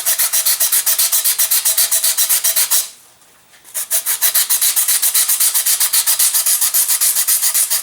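Sandpaper scrubbing back and forth on small wing-mount parts in rapid, even strokes, pausing for about a second about three seconds in. The parts are being sanded down so they sit flush with the wing.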